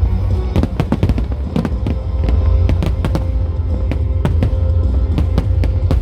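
Fireworks going off in quick, irregular bangs, several a second, over music and a steady low rumble.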